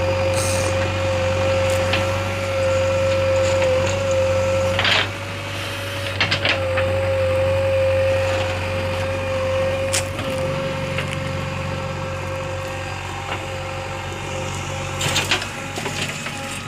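A JCB 3DX backhoe loader's diesel engine running steadily with a constant whine over it, and a few knocks and clatters from the work.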